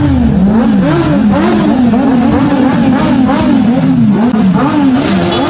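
Motorcycle engine being revved again and again, its pitch rising and falling about twice a second.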